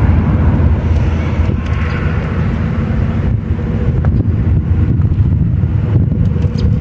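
Railway locomotive running close by: a loud, steady low engine rumble, with a few faint clicks.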